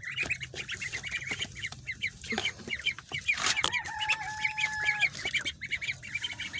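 A group of young ducklings peeping rapidly and without pause in high, short notes. One long, level call comes about four seconds in.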